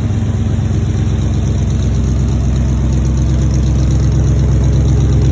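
Carbureted engine fed by an unrebuilt Thermoquad four-barrel carburetor, idling steadily on its first start after sitting about six months. It grows slightly louder over the few seconds.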